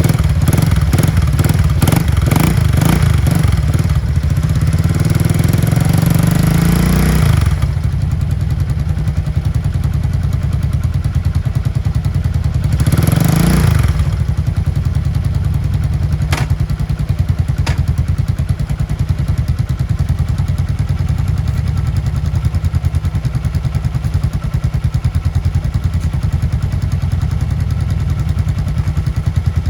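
Honda SL motorcycle engine running just after a cold kick start: the throttle is blipped repeatedly for about seven seconds, ending in a rising rev that drops off, revved once more briefly about thirteen seconds in, then left at a steady idle. Two sharp clicks come shortly after the second rev.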